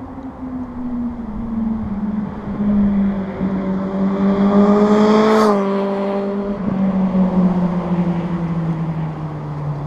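Suzuki GSR750's inline-four engine with an aftermarket Scorpion exhaust passing by under throttle: the engine note climbs and grows louder as the bike approaches, peaks about halfway through with a short rush of wind, drops sharply in pitch as it goes past, then keeps sinking as it pulls away.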